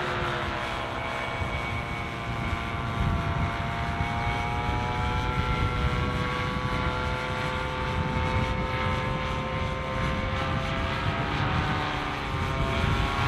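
A paramotor's two-stroke engine droning steadily overhead, its pitch drifting slowly up and down, under low wind rumble on the microphone.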